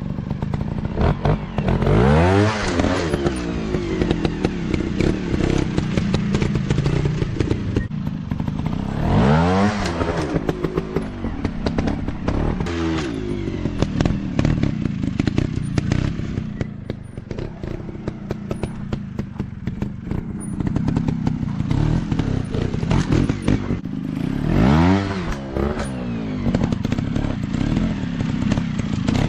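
Off-road dirt bike engines running and revving, the pitch swinging up and back down sharply about four times, with clattering and knocks from riding over rough ground.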